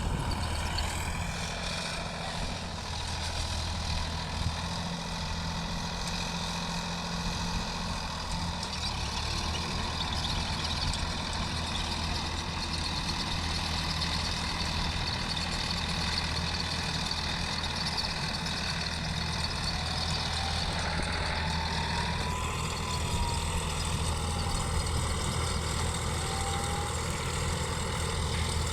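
Sonalika 745 DI tractor's diesel engine running steadily. A faint whistle-like tone rises and then falls near the end.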